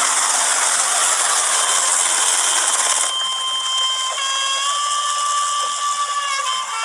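Helicopter running: a loud rushing hiss for about the first three seconds, then steady high whining tones that shift pitch slightly.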